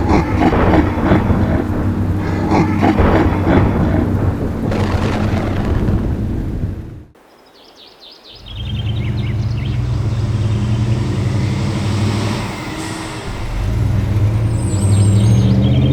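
Cartoon sound effects of a heavy truck engine rumbling, with a dense clatter of impacts over the first half. The sound drops out briefly about seven seconds in, then the engine rumble returns.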